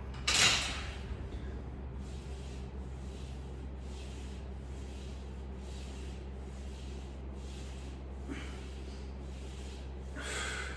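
A man's sharp breath out about half a second in, then faint, evenly spaced breaths through the nose during a set of weighted side bends, over a steady low hum.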